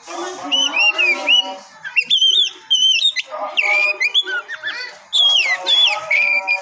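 Oriental magpie-robin (kacer) singing: quick runs of sliding whistled notes in short phrases, over lower, buzzier notes, played as a bait song to rouse another kacer.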